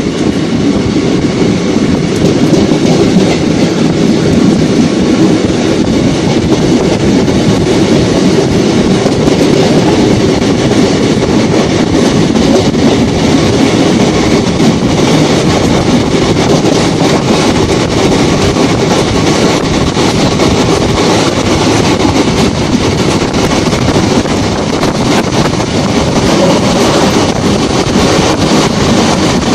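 Train in motion heard from on board the moving coach: a loud, steady rattle and rush of wheels running on the rails.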